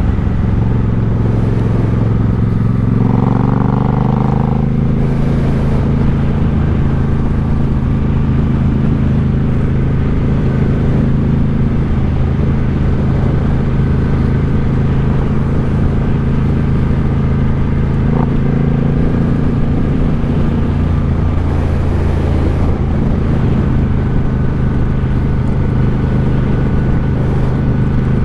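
Suzuki Boulevard C50's 805 cc V-twin running through an aftermarket Cobra exhaust while the motorcycle is ridden. The engine note rises briefly about three seconds in, then holds steady.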